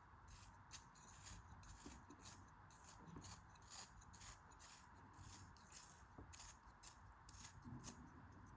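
Faint, quick, irregular series of crisp cutting strokes, as in ASMR cutting of kinetic sand or clay.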